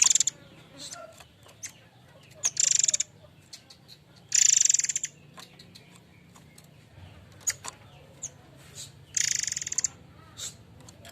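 Murai air mancur songbird singing: four loud bursts of fast, buzzy trilled song, each under a second long, with short sharp single call notes between them.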